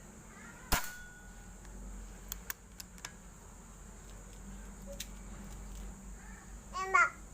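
A single sharp air rifle shot about a second in, followed by a few faint ticks. Near the end comes a short, loud sound that wavers quickly in pitch.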